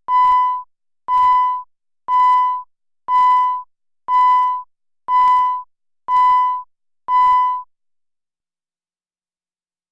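Electronic beep: a steady high tone, each about half a second long, repeated once a second eight times and then stopping.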